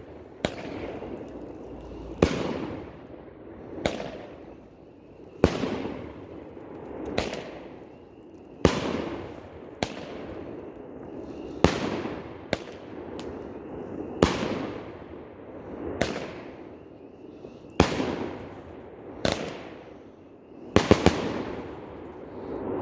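A 12-shot consumer firework cake, Pyro Diablo's Noisemaker, firing shot after shot, each a sharp loud bang following a short rising rush, about every one and a half to two seconds. Near the end several bangs come in quick succession.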